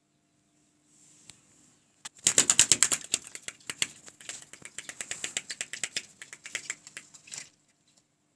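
A bird indoors beating its wings in a rapid flutter for about five seconds, loudest in the first second and then weaker and more broken.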